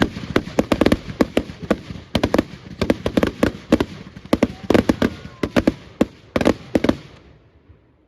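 Fireworks display: a rapid string of bangs and crackles, many a second, that thins out and fades away about seven seconds in.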